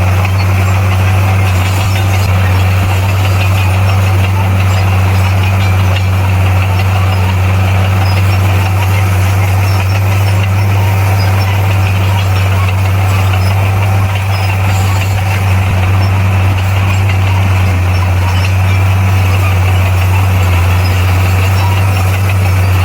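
Komatsu D58P bulldozer's diesel engine running at a steady speed, a constant low drone that does not rise or fall.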